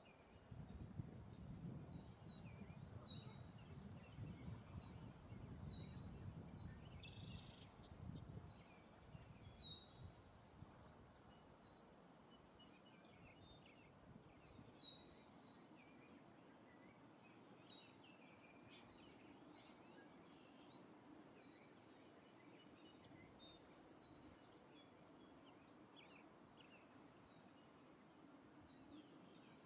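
Faint outdoor birdsong: several birds calling, one repeating a short high chirp that slides down in pitch every few seconds. A low rumble underlies the first third or so.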